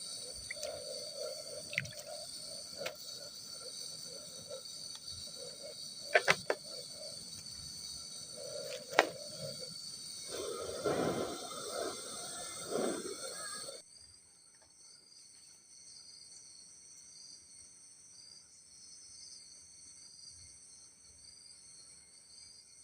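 A wavering hum with steady high whines and a few sharp clicks and knocks, louder and rougher for a few seconds near the middle, cuts off suddenly about 14 seconds in. After the cut only insects, crickets among them, are heard, their chirping pulsing in a steady rhythm about once a second.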